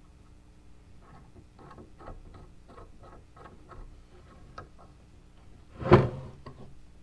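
Metal parts being handled: a run of light clicks, about three a second, then a single loud clank about six seconds in.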